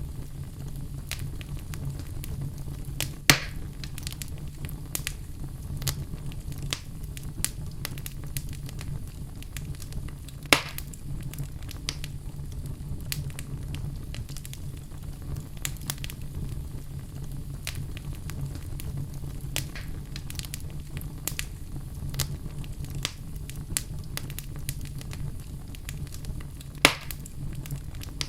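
Wood fire burning in a fireplace: a steady low rumble of flames with frequent small crackles and three louder sharp pops.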